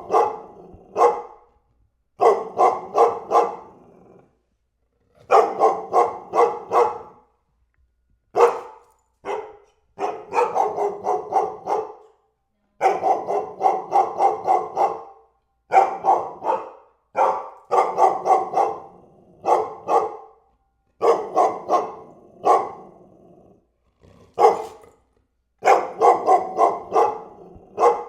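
A dog barking in quick runs of several barks at a time, with short gaps of silence between the runs.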